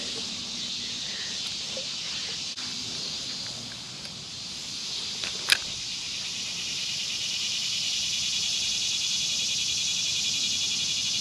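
Steady, high-pitched chorus of insects with a fast pulsing trill that grows a little louder about halfway through. A single short click about five and a half seconds in.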